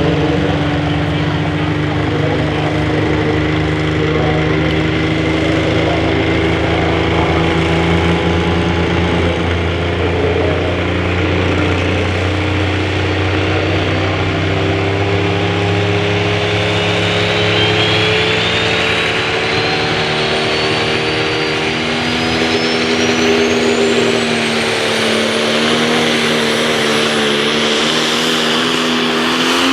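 Multi-turbocharged super stock diesel pulling truck running hard under load, its engine note climbing slowly. A thin high whine rises steadily in pitch through the second half.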